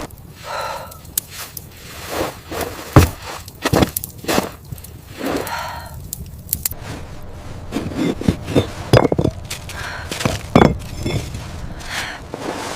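A series of irregular sharp knocks, cracks and clinks, a few seconds apart and sometimes in quick pairs, some ringing briefly.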